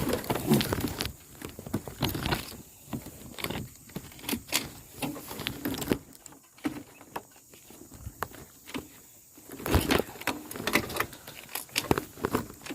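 Irregular rustling with light clicks and knocks of someone moving about and handling things by hand, busiest in the first second and again about ten seconds in.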